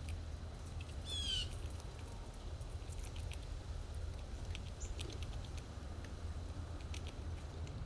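Scattered light clicks and taps from squirrels feeding, over a steady low rumble. A bird gives one short, falling trill about a second in.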